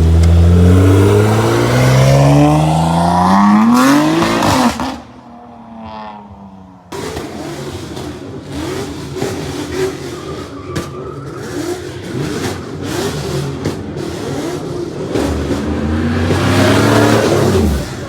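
A car's engine at full throttle accelerating hard, its pitch climbing steeply, then fading away. About seven seconds in, lower mixed engine noise begins abruptly, and near the end another car accelerates hard with a rising pitch, stopping suddenly.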